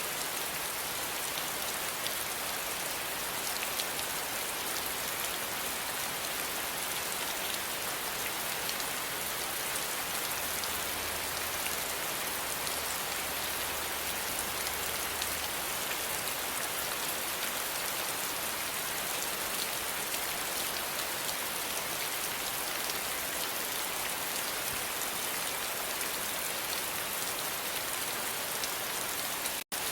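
Steady rain falling: an even, dense hiss of many drops. It cuts out for an instant just before the end.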